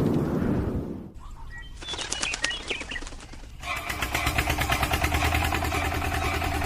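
Small electric motor and gearbox, as on an RC toy tractor, starting up about halfway through and running with a steady hum and rapid, evenly spaced ticking. Before that, a loud low rumble fades out about a second in, followed by a few faint chirps.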